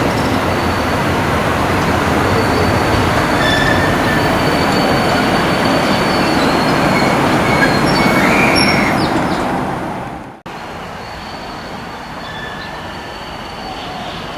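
Train running on the rails close by: a loud, steady rolling noise with thin, high wheel squeals over it. About ten seconds in it cuts off abruptly, and a quieter rolling train noise with faint squeals takes its place.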